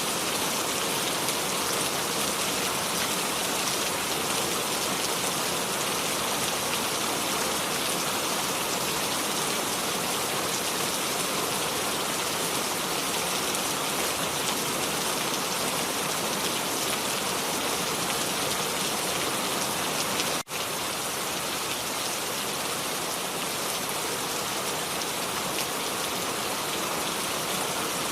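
Steady rain falling, an even hiss of countless drops with no thunder. The sound cuts out for an instant about twenty seconds in, then carries on unchanged.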